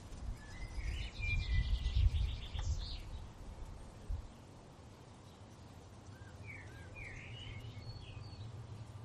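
A songbird sings two short, quick twittering phrases, one near the start and one about seven seconds in. Underneath, a low wind rumble is strong for the first four seconds, then dies down.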